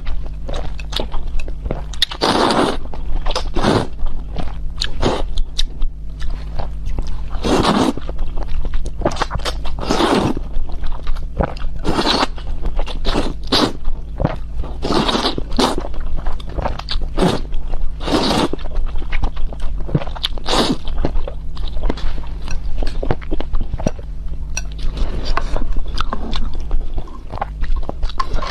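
Close-miked eating: chewing and crunching, with louder bursts of noise every second or two, over a steady low hum.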